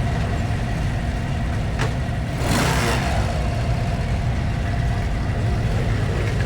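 Motorcycle engine idling with a steady low rumble, with a sharp click just under two seconds in and a short burst of hissing noise about half a second long, about two and a half seconds in.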